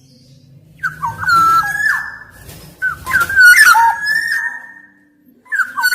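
Black-naped oriole singing loud, fluty whistled phrases that glide up and down in pitch: two full phrases, and a third beginning near the end.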